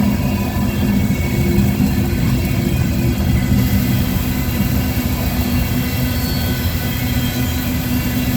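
Freight cars of a gypsum train rolling past, a steady rumble of wheels on the rails.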